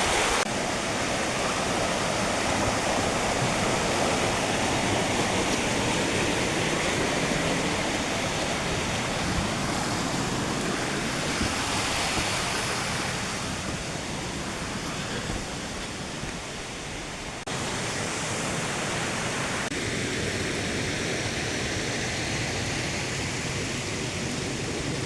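Rushing water of Spring Creek running steadily, with abrupt changes in its sound about 17 and 20 seconds in.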